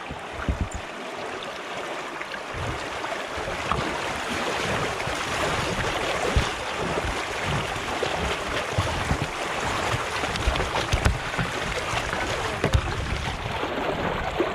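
Water rushing through a river fish pass, growing louder about two seconds in, with scattered low knocks against the canoe.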